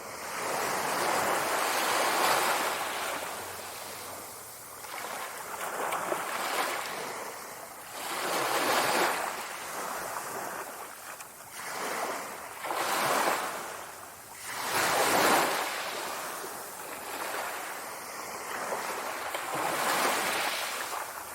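Sea waves breaking and washing on the shore, the surf swelling and falling back every few seconds.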